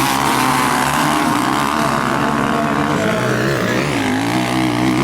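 Motocross bikes racing on a dirt track: several engines running at once at different pitches, their revs rising and falling as they accelerate and back off.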